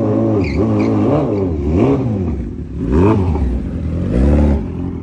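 Suzuki Hayabusa's inline-four engine revved up and down about five times in quick succession, then dropping to a steady idle near the end.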